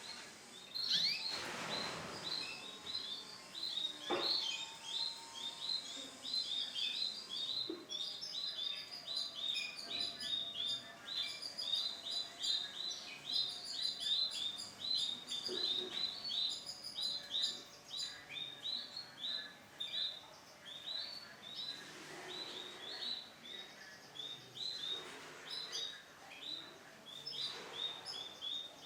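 Male domestic canary singing a long, unbroken song of rapid, repeated high chirps and trills. A sharp click sounds about four seconds in, and a few brief rustling noises come in the background.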